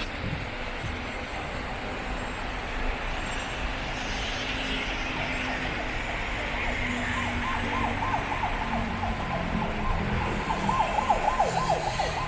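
Emergency vehicle siren in a fast yelp, starting about two-thirds of the way in and growing louder, over a steady hiss of city traffic.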